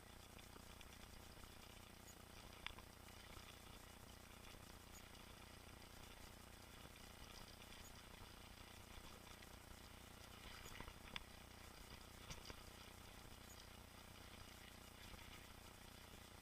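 Faint, muffled riding noise of a mountain bike on a trail: a quiet steady hiss with a few sharp clicks and rattles, one about three seconds in and a cluster about two-thirds of the way through.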